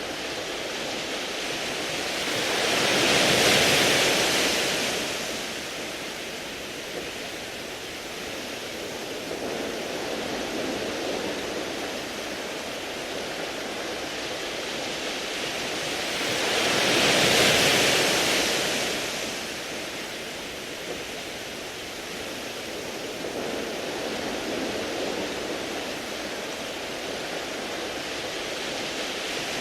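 Sea waves washing over a beach of smooth, round pebbles. A wave swells and fades about three seconds in and again just past halfway, with a steady hiss of water between them, and another wave builds at the very end.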